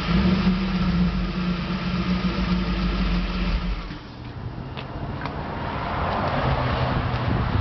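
Ford SVT Raptor's V8 running through an electric exhaust cutout with a steady low rumble. The rumble drops away suddenly just under four seconds in, leaving a quieter low engine sound and a hiss that grows louder toward the end.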